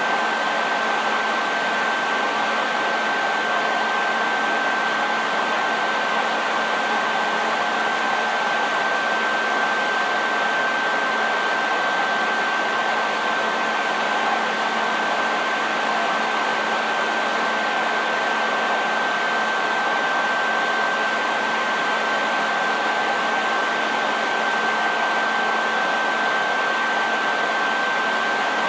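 Hair dryer running continuously: a steady rush of air with a constant high whine from its motor and fan, unchanging in level.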